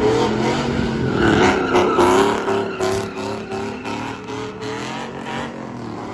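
Pickup truck with a loud aftermarket exhaust accelerating hard. The engine note climbs into the start, then holds high and steady as the truck pulls away and gets quieter.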